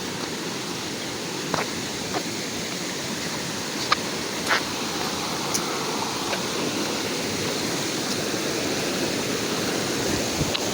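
Steady rush of flowing stream water, with a few brief clicks in the first half.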